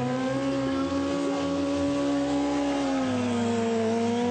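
Stunt motorcycle engine held at high, nearly steady revs, dipping slightly about three and a half seconds in and then rising again.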